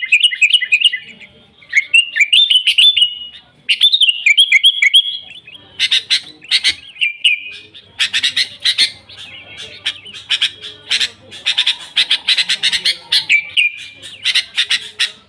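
Sooty-headed bulbul singing: three short, bubbly whistled phrases in the first five seconds, then a long run of rapid, sharp chirps broken by more short warbles.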